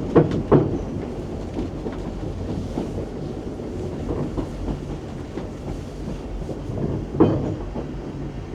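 Isle of Man Steam Railway train running along the narrow-gauge line: a steady rumble with sharp clicks of the wheels over rail joints, two just after the start and a louder one about seven seconds in.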